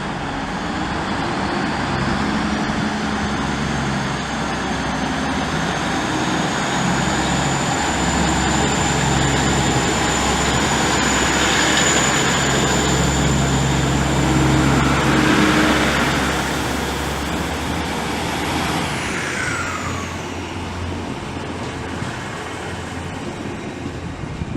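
Train running through the station: a steady low hum with a high whine that climbs slowly, holds, then slides down in pitch and fades about 19 seconds in.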